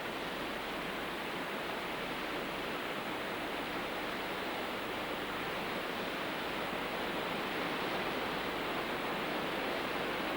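Steady roar of the Iguazu Falls: a continuous rush of falling water.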